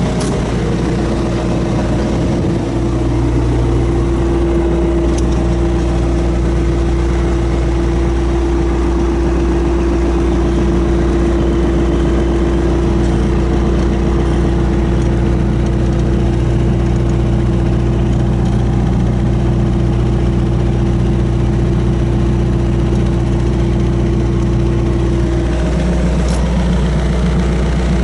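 Diesel engine of a 2016 John Deere 5115ML tractor running steadily at a constant speed, with a higher steady tone in its sound that drops out a few seconds before the end.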